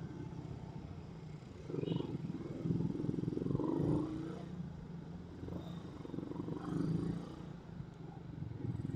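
Suzuki Raider 150 motorcycle engine running as it is ridden, picking up revs twice: first from about two seconds in to about four seconds, and again briefly near seven seconds.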